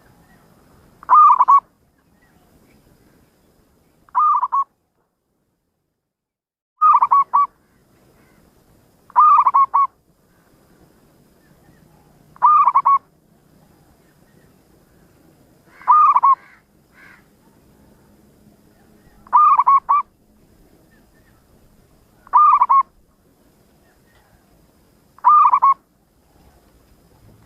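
Zebra dove (perkutut) cooing: nine short, rolling coo phrases, evenly spaced about three seconds apart.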